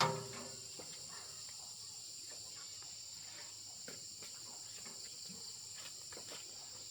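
Steady high-pitched chorus of insects, with a few faint ticks and taps underneath.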